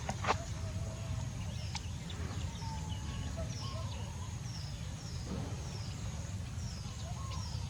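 Short high chirps, as of a bird, repeating about once a second over a steady low rumble, with two sharp knocks at the very start.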